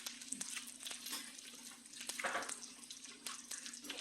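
Table noise during a meal: scattered light clicks and clatter of utensils and dishes over a steady low hum, with a brief louder rustle about two seconds in.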